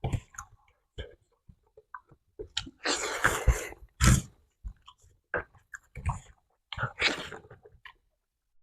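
Chewing and crunching close to the microphone: scattered crunches and wet mouth clicks, with louder, longer crunching noises about three, four and seven seconds in.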